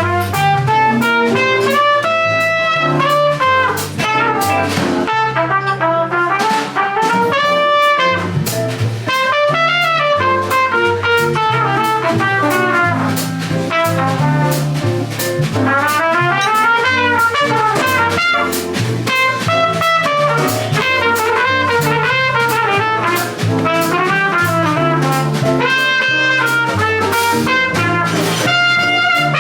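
A small jazz combo playing live: a horn plays a moving melodic solo line over a stepping bass line and drums.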